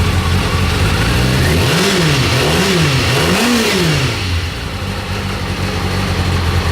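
2003 Kawasaki ZZR600's inline-four engine idling, then blipped up and back down three times in quick succession about a second and a half in, before settling back to a steady idle.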